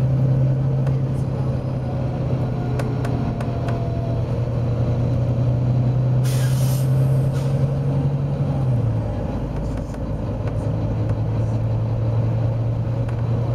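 Volvo B9TL bus's nine-litre six-cylinder diesel running with a steady low drone, its note dropping a little about nine seconds in. About six seconds in comes a short burst of compressed-air hiss from the bus's air system.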